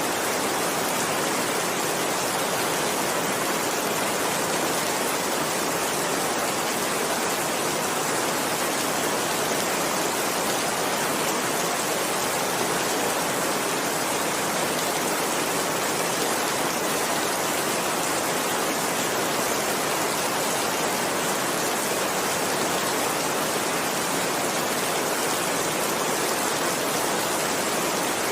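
Steady heavy rain, a dense even hiss with no thunderclap and no change in level.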